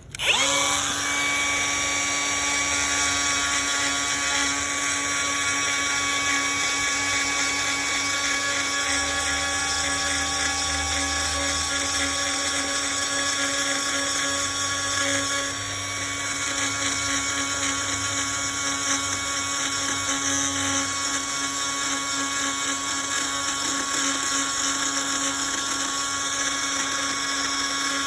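High-speed rotary tool with a ball-nose carbide bit grinding out damaged fiberglass, a steady high whine that starts at the beginning and runs with a brief dip in level about halfway through.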